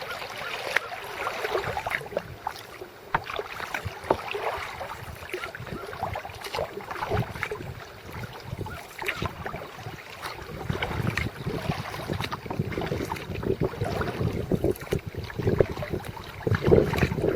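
Kayak being paddled: water splashing and dripping from the paddle and lapping at the hull in irregular short splashes. Wind noise on the microphone grows louder near the end.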